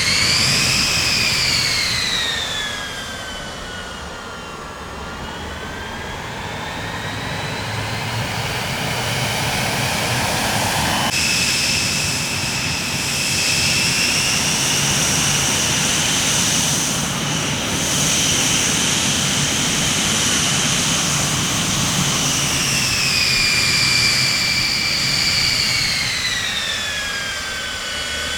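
Jet airplane engines running with a high turbine whine over a rumble, the whine sliding up and down in pitch. About eleven seconds in the whine abruptly jumps to a steady higher pitch, and near the end it falls and then rises again.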